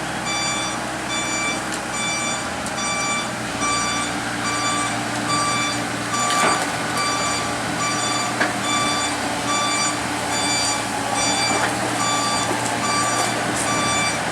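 Excavator's travel alarm beeping about once a second over the steady running of its diesel engine, with a couple of sharp knocks midway.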